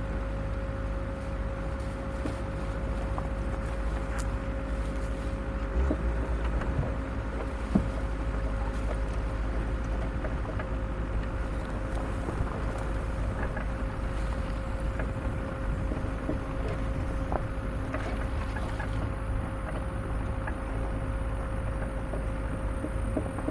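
An off-road vehicle's engine runs with a steady low rumble and a constant thin whine as it crawls along a rough, overgrown trail. Short knocks and clicks come now and then, the sharpest about eight seconds in.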